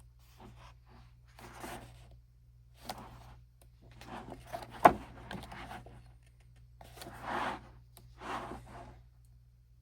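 Pages of a glossy photobook being turned and handled, a paper swish every second or so, with one sharp click or tap about five seconds in that is the loudest sound.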